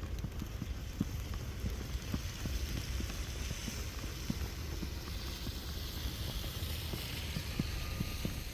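Footsteps in snow, irregular soft thuds over a steady low rumble of wind on the microphone, with a hiss that swells over the last few seconds.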